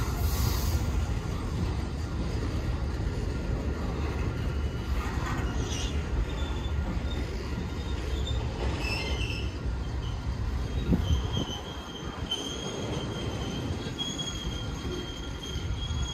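A train rolling past with a steady low rumble, its wheels squealing against the rails in thin high tones that hold steady through the second half.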